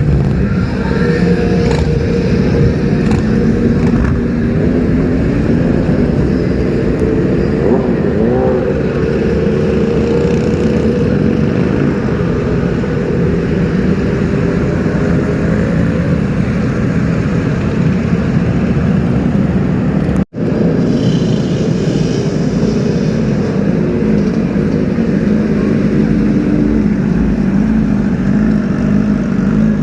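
Superbike engines running in street traffic, a loud steady engine sound whose pitch wavers a little. It breaks off for an instant about twenty seconds in and carries straight on.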